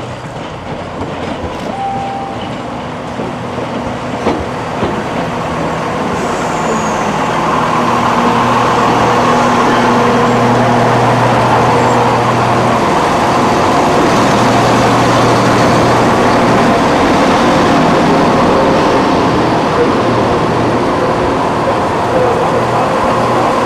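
Diesel passenger train under way, engine and wheel-on-rail noise. It grows louder a few seconds in and then runs on steadily as the train picks up speed.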